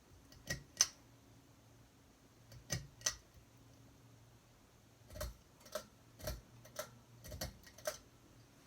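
Sharp clicks, two pairs and then a quicker run of about eight, over the faint steady low hum of a Hunter Discovery ceiling fan running.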